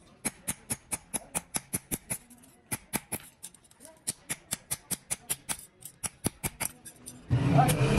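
Rapid sharp taps, about five a second, in runs broken by short pauses. Near the end a louder, fuller noise cuts in over them.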